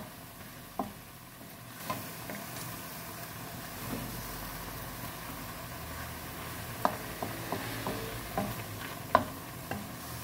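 Bottle gourd (opo) strips sizzling in an aluminium pan in their own juice while a wooden spatula stirs them, with scattered scrapes and knocks of the spatula against the pan. The sizzle grows a little louder about two seconds in.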